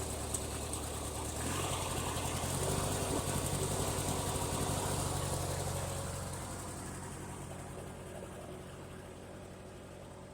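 Mastercraft riding lawn mower engine running, rising in pitch as it is throttled up about a second and a half in, then fading steadily as the mower drives away.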